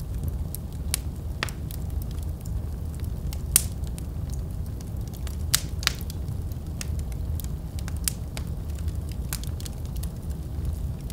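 Fire burning in a fireplace: a steady low rumble of flames with irregular crackles and sharp pops, the loudest pop about three and a half seconds in and two more a couple of seconds later.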